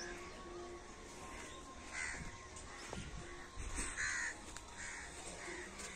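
Birds calling outdoors: several short calls about two, four and five seconds in, the loudest around four seconds.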